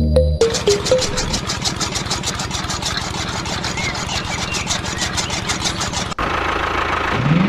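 Small engine of a miniature DIY machine running steadily with a fast, even putter, starting about half a second in. Near the end it cuts to a different running sound that rises in pitch.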